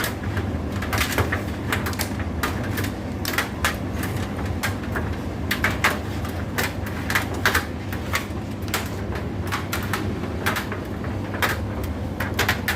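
Indesit IDC8T3 condenser tumble dryer running: a steady motor and drum hum with irregular clicks and knocks, several a second, of the load tumbling in the drum.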